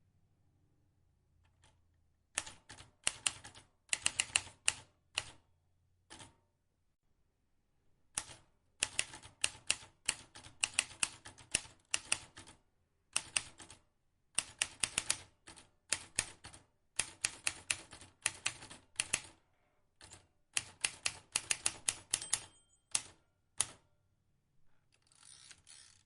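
Vintage manual typewriter being typed on: fast runs of sharp key clacks in several bursts, with short pauses between them, starting about two seconds in.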